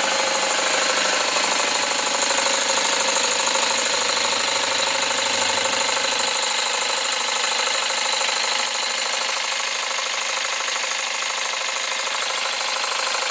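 Jensen 20G model steam engine running steadily at speed on live steam: a fast, even beat of the exhaust over a steady hiss. A low hum underneath stops about six seconds in, and the sound gets slightly quieter soon after.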